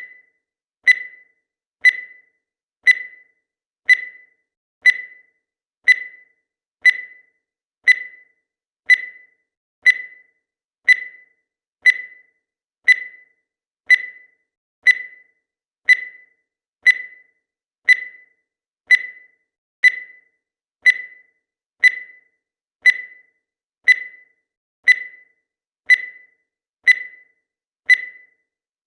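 Countdown timer's electronic tick: a short, high blip once every second, each dying away quickly, all alike.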